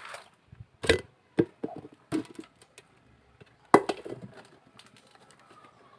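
A handful of sharp wooden knocks and clatters, as of wooden pieces being set down and handled, the loudest about three and a half seconds in, then only faint small rustles.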